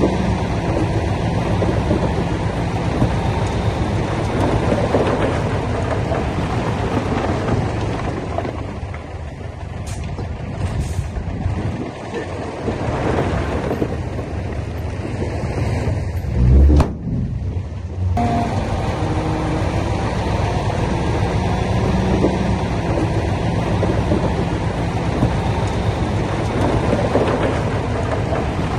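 Heavy diesel earthmoving machinery running steadily, with a loud low thump a little past halfway and a brief dip in the sound just after it.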